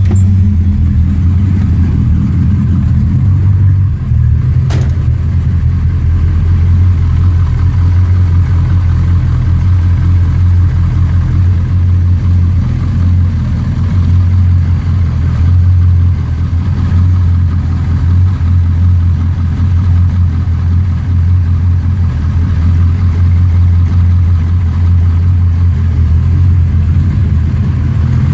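416-cubic-inch LS3 V8 running steadily through Borla Pro XS 3-inch mufflers, a low, even exhaust note with no revving. A faint click about five seconds in.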